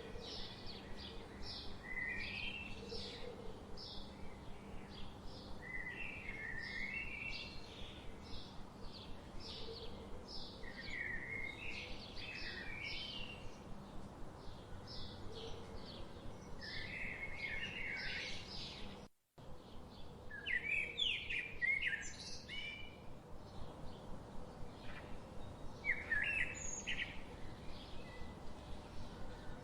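Forest birds chirping and singing: a steady run of short, high chirps about two a second, with brief warbling phrases lower down every few seconds. The sound cuts out completely for a split second about nineteen seconds in.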